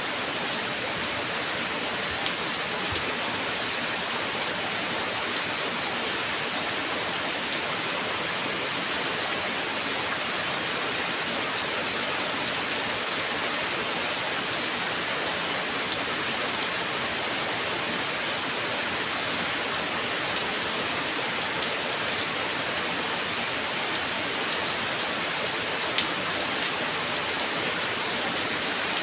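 Steady heavy rain falling, an even hiss with a few louder single drops standing out now and then.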